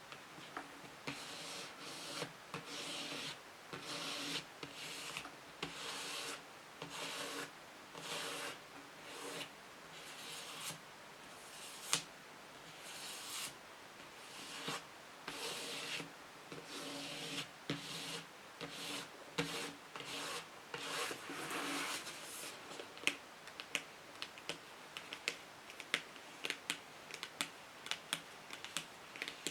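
Scratching on a book, in repeated strokes each about half a second to a second long. In the last six seconds or so it changes to quick, light tapping.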